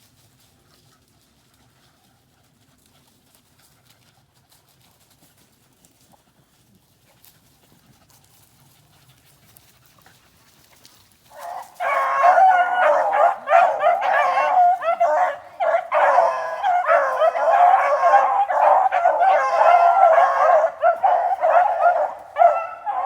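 A pack of rabbit dogs baying in chorus as they run a rabbit. It is faint at first, then turns suddenly loud about halfway through, with many overlapping voices that carry on without a break.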